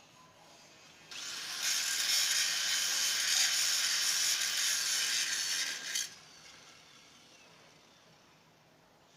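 A tool working on an alloy pipe makes a steady, high-pitched rasping noise. It starts about a second in and stops abruptly about five seconds later.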